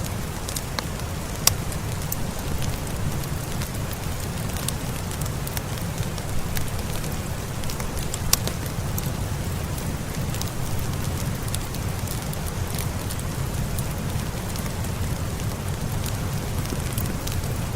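Steady rain with a low rumble underneath, mixed with a fireplace fire crackling in scattered sharp pops. Two louder pops stand out, one about a second and a half in and one about eight seconds in.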